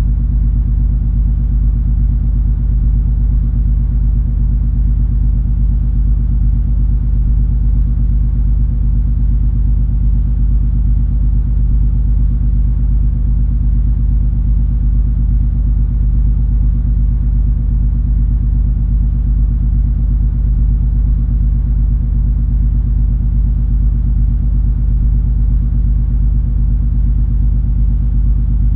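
Steady low drone of the MS Color Fantasy cruise ferry under way, heard aboard: the ship's engines and hull make a deep, unchanging rumble with a few steady hum tones in it.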